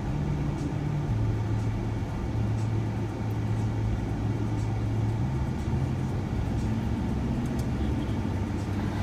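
Road and engine noise inside a moving shuttle van's cabin, steady throughout. A low engine hum drops in pitch about a second in and climbs again around five seconds in.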